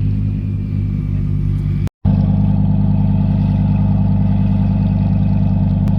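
Car engine running at steady revs. About two seconds in there is a sudden cut to another steady, louder engine note.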